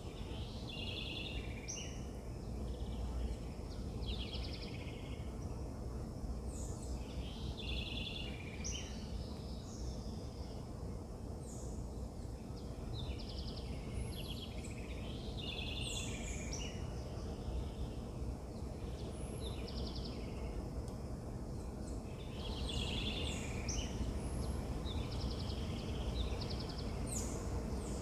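Several birds singing and calling, short chirps and trills repeated again and again over a steady low background rumble.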